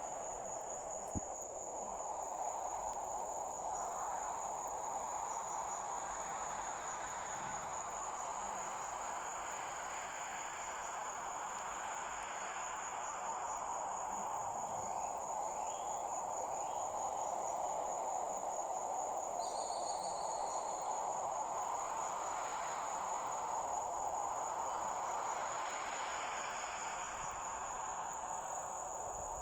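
Crickets trilling steadily on a single high pitch, over a steady rushing background noise that swells and eases slowly. A short, higher chirp cuts in about two-thirds of the way through.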